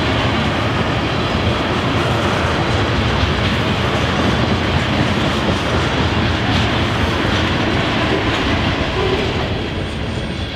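Loaded ethanol tank cars of a freight train rolling past close by: a loud, steady noise of steel wheels on the rail. The noise drops off near the end as the last car clears.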